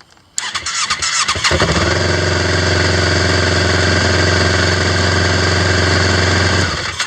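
Electric starter cranking the 2008 Yamaha Phazer GT snowmobile's four-stroke twin engine, which catches after only about three turns, settles into a steady idle, then cuts off abruptly near the end. A quick start on a new, fully charged AGM battery: the owner takes it as a sign that a low battery was behind the machine's long cranking.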